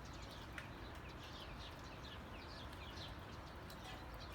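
Faint birds chirping: many short, quick chirps, each sliding down in pitch, repeated irregularly over a steady low background hiss.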